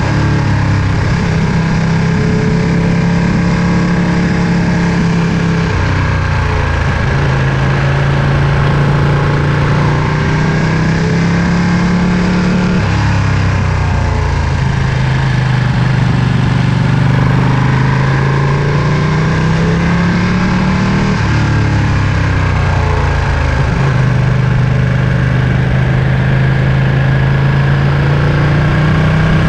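Ducati Panigale V2's 955 cc V-twin engine pulling at moderate revs. The engine note climbs slowly, then drops suddenly at each gear change, about four times.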